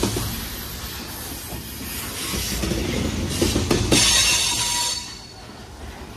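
Coal train gondola cars rolling past at track side: steady rumble of steel wheels on rail with a run of clacks about three and a half seconds in, and faint wheel squeal; the sound eases off about five seconds in.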